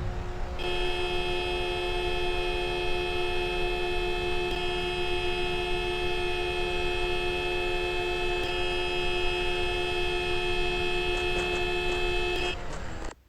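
A vehicle horn sounding one long, steady chord for about twelve seconds, over a low rumble. It cuts off suddenly near the end.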